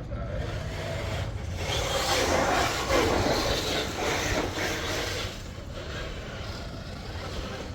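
Radio-controlled truck driving over rough, rocky ground: its motor and tyres make a grinding, scraping noise that swells in the middle few seconds, over a steady low hum.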